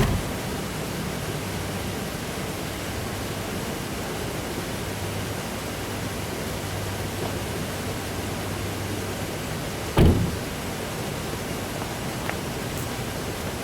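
Steady rushing noise with a faint low hum underneath, broken by two short thumps: one at the very start and one about ten seconds in.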